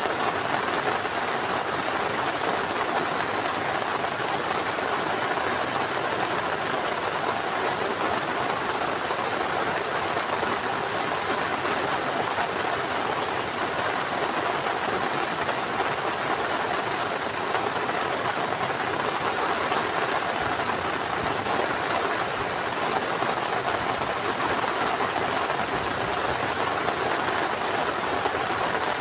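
Heavy rain falling steadily, an even downpour hiss with no let-up.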